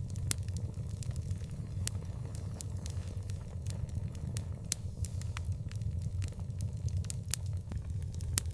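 Wood fire crackling, with sharp irregular pops, a few louder than the rest, over a steady low rumble.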